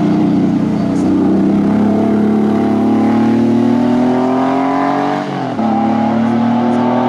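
Porsche 911 flat-six engine accelerating hard as the car pulls away, its pitch climbing steadily, dropping sharply at an upshift about five seconds in, then climbing again.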